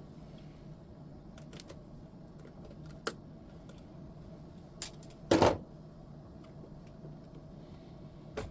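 Scattered sharp clicks of tools and small metal parts being handled, with one louder clatter about five seconds in, as hardware is removed to take off an amplifier's faceplate.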